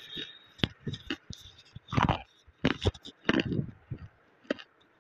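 Close-up crunching as a piece of green slate is bitten and chewed: a string of sharp, irregular crunches, the loudest about two seconds in.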